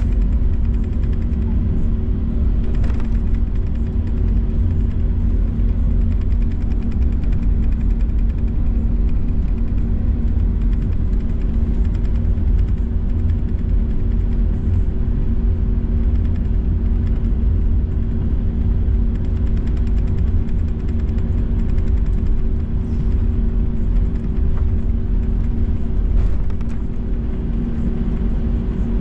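Steady low rumble inside an Airbus A321 cabin on the ground before takeoff, engines at idle, with two steady hums running under it throughout.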